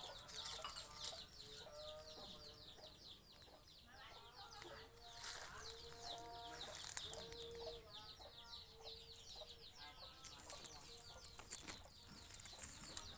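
Chickens clucking in short held calls, with a steady stream of quick, high, falling chirps over them.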